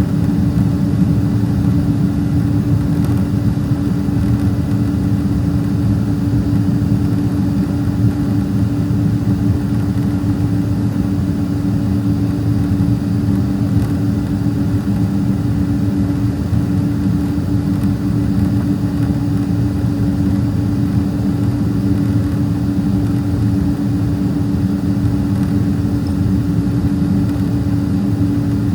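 Cabin noise of a Boeing 767-300ER taxiing with its turbofan engines at idle: a steady low rumble with a constant hum.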